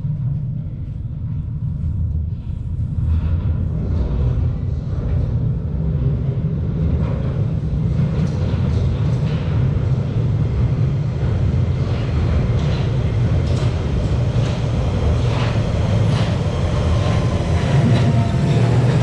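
London Underground Central Line train approaching through the tunnel into the platform: a low rumble that builds steadily in loudness, with repeated wheel clacks growing stronger. Thin squealing tones join in near the end as it comes in.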